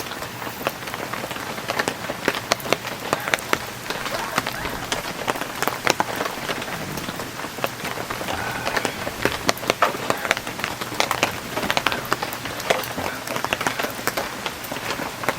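Heavy rain falling: a steady hiss with many sharp individual drop hits throughout.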